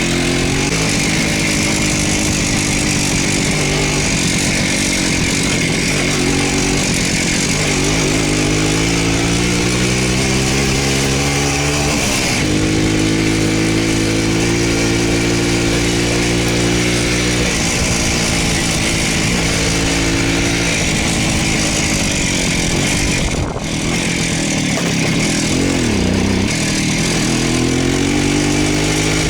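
Voskhod two-stroke single-cylinder motorcycle engine running on the move, its pitch rising as it accelerates and dropping back. There are short breaks at gear changes about twelve seconds in and again past the three-quarter mark.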